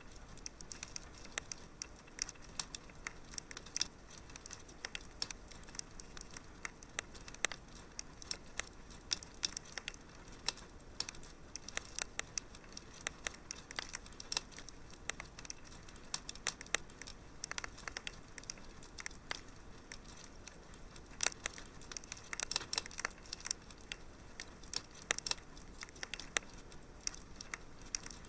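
Wood fire crackling in a fireplace: irregular sharp snaps, some close together and some spaced out, over a soft steady hiss.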